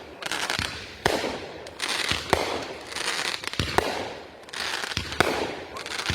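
Consumer aerial fireworks going off: a quick succession of sharp bangs, sometimes two close together, with crackling between the reports.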